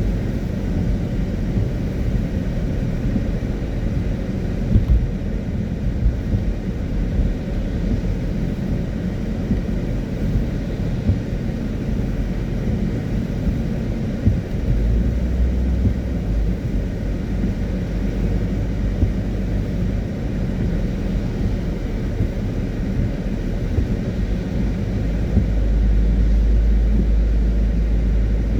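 Car driving on a wet road: a steady low rumble of tyres and engine, with a few light knocks, growing heavier for a moment about halfway through and again near the end.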